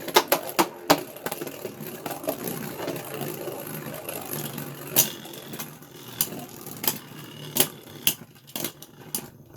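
Two Beyblade Burst spinning tops, one with a 3D-printed plastic layer, whirring and rattling as they spin around a plastic stadium, with sharp clicks each time they collide. The whirring fades near the end.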